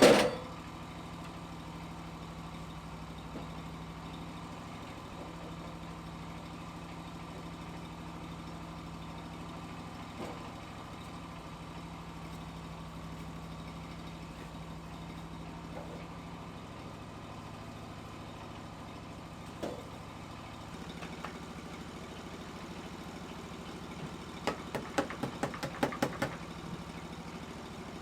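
An engine idling steadily. There is a loud knock right at the start, a few single knocks later on, and a quick run of clicks or knocks near the end.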